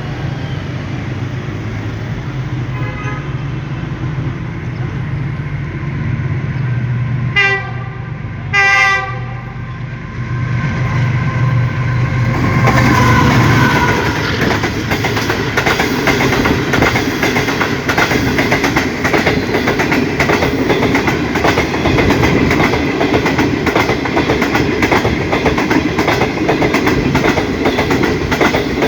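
Pakistan Railways Green Line Express train: a diesel locomotive's steady low rumble, two short blasts of its horn, then loud steady rolling noise with rapid rhythmic clickety-clack of wheels over rail joints for the rest of the time.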